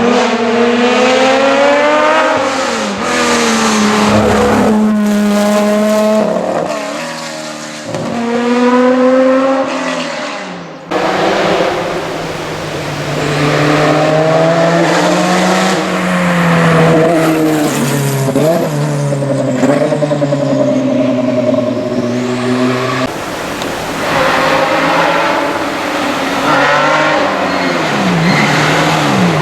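Historic rally car engines revving hard and rising and falling through the gear changes as the cars accelerate past, in several passes joined by abrupt cuts about 11 and 23 seconds in.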